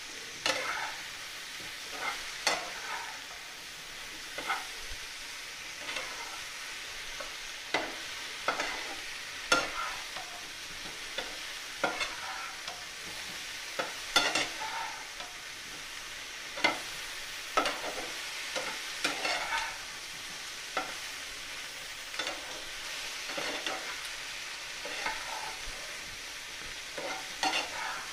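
Marinated button mushrooms with ginger and green chillies sizzling as they fry in butter, with a steady hiss. A metal spatula scrapes and knocks against the pan at irregular moments as they are stirred.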